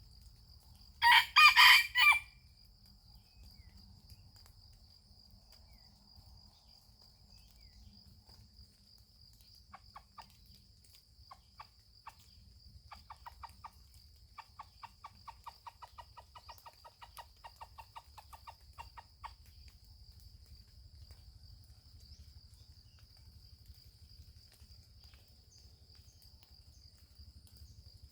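A junglefowl rooster crows once, loud and short, about a second in. Soft, rapid, evenly spaced clucking follows from about ten to nineteen seconds in, over a steady high-pitched insect drone.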